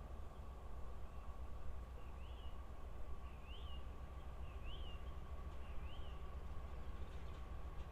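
A bird calling four times, each a short note that rises and falls, about once a second, over a faint steady low rumble and a thin steady tone.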